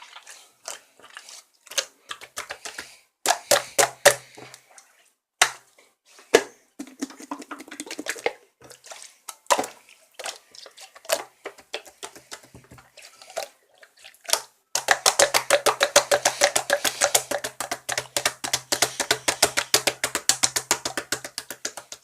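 Translucent slime being squished and pressed by hand, giving scattered sticky pops and clicks. About two-thirds of the way in, this turns into a fast, dense run of clicks.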